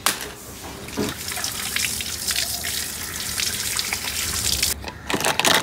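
Running water splashing onto and through pink plastic racks as they are washed, with water spattering on the plastic and the floor. It breaks off briefly near the end and then comes again.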